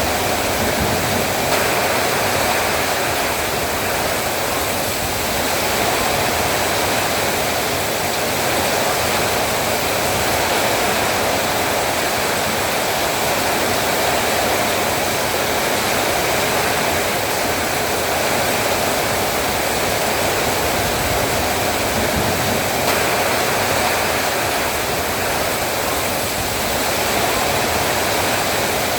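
Heavy rain falling in a steady downpour, a dense even hiss with no breaks.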